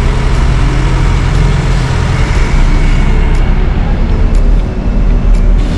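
Loud, steady low rumble of road-vehicle traffic.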